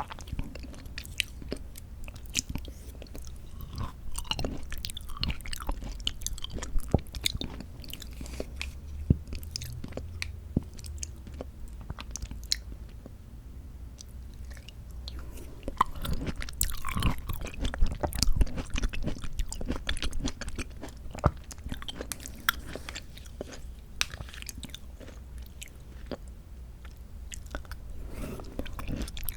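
Close-miked chewing of soft canned mandarin orange segments from a fruit cup: wet mouth noises and many sharp clicks. It goes quieter for a few seconds midway, then gets busier and louder again.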